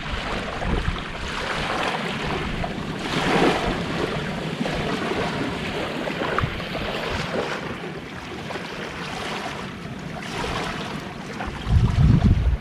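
Gentle sea waves washing onto the shore, swelling about three seconds in and again near ten seconds, with wind buffeting the microphone in a low rumble near the end.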